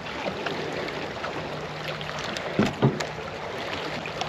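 Steady outdoor wash of wind and water with a faint low hum under it, and two brief low thumps a little past the middle.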